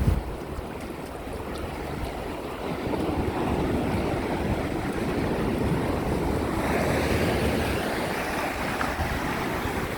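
Small waves washing up on a sandy beach, the surf swelling a couple of times, with some wind rumble on the microphone.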